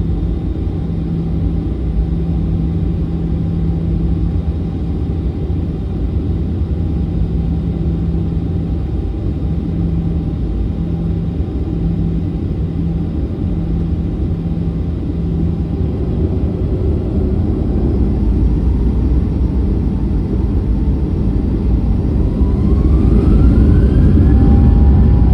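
Boeing 737-900 jet engines and airframe making a steady low rumble; near the end the engines' whine rises in pitch and the noise grows louder as they spool up.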